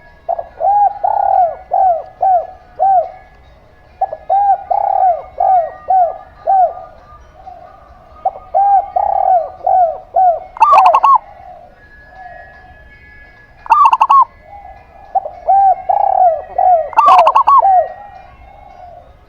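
Zebra dove (perkutut) and spotted dove (derkuku) cooing: repeated phrases of four to six short, down-curving coos, with a few louder, sharper calls about eleven, fourteen and seventeen seconds in.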